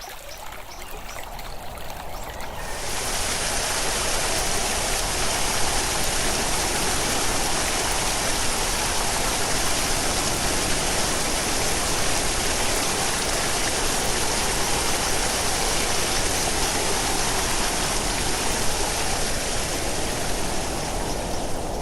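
Steady rushing of a flowing stream, fading in over the first few seconds, with a brighter hiss of splashing water joining about two and a half seconds in.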